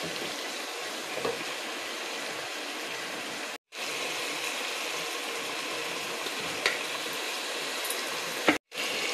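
Diced chicken sizzling in hot oil in a non-stick pot over a medium gas flame: a steady frying hiss with a few light clicks, broken twice by a brief dropout.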